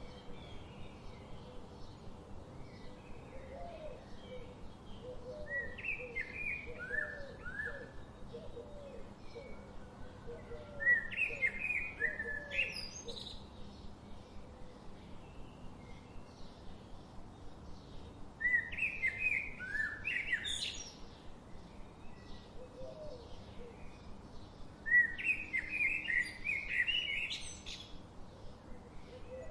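A songbird singing four loud, chirping phrases spaced several seconds apart, each ending in a quick rising high note. A run of softer, lower short notes repeats through the first half.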